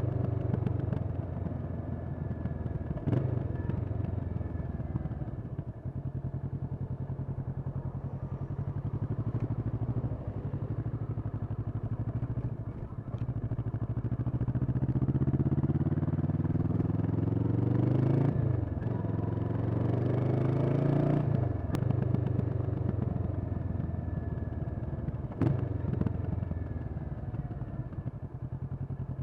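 Kawasaki Vulcan S 649 cc parallel-twin with an Arrow aftermarket exhaust, running under way. In the middle the engine note climbs in pitch twice, each time falling sharply as the rider shifts up. There are a few short knocks along the way.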